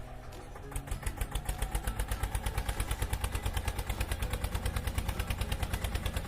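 Tractor engine chugging steadily, turning into a quicker, even beat of about eight pulses a second about a second in.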